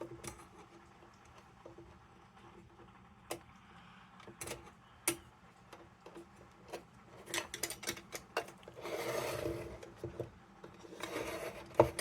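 Needle-nose pliers and small metal lantern parts clicking and tapping against each other, in scattered light clicks with a quick run of them a little past halfway. Two short rubbing, scraping stretches come near the end.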